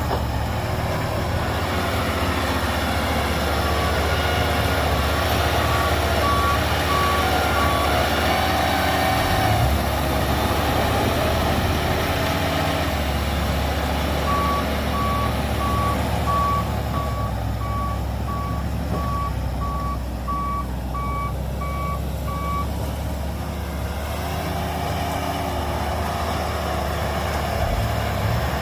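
Reversing alarm of a heavy earthmoving vehicle at the site, a dump truck or the bulldozer, beeping at about one and a half beeps a second in two runs: one a few seconds in and a longer one through the middle. Under it a diesel engine runs steadily throughout.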